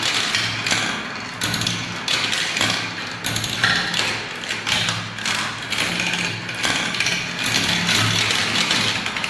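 Many balls rolling and clattering down marble-run tracks: a dense stream of small clicks and rattles over a low, wavering rolling rumble.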